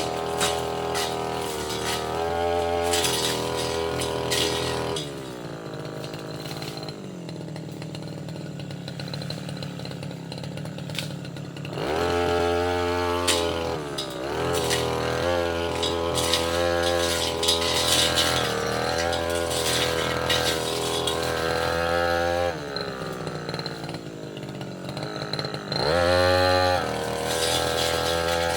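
Tasco 33 Pro brush cutter engine revving hard as it cuts, easing off to a lower, falling pitch about five seconds in and again past twenty seconds, then revving back up. Sharp ticks and knocks run through it as the blade strikes twigs, roots and debris.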